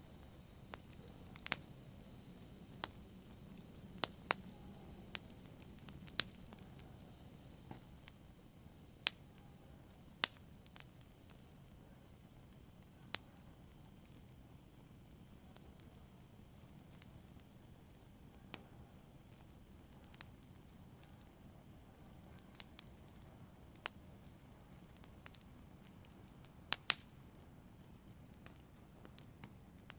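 Wood fire crackling in a fireplace: sharp, irregular snaps and pops every second or two over a faint low hiss, with a louder double snap near the end.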